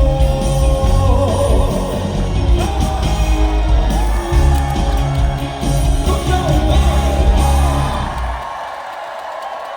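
Male singer with a live backing track performing the closing bars of a Korean trot song; the music ends about eight and a half seconds in, leaving the audience's noise.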